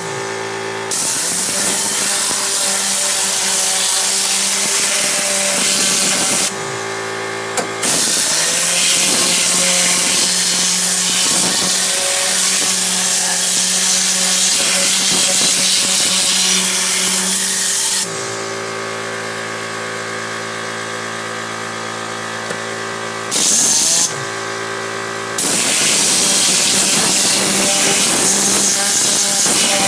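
Matador air-powered detailing gun blowing a jet of air and cleaning solution with a loud hiss. The trigger is pulled and released several times, with long blasts and a short one about 23 s in, over a steady motor hum.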